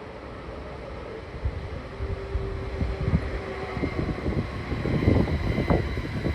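A rail vehicle approaching, its low rumble growing steadily louder, with a brief steady tone partway through.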